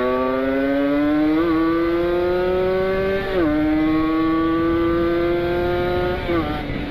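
Kawasaki Ninja 150 RR's single-cylinder two-stroke engine at full throttle, its pitch climbing steadily and dropping at an upshift, twice, before climbing again. Wind rush runs under it.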